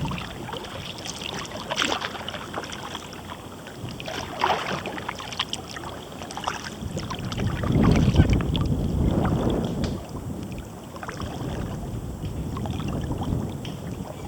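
Kayak paddling: water splashing and dripping off the paddle blades in a run of short splashes and small knocks. A low rumble of wind on the microphone swells up between about seven and ten seconds in and is the loudest part.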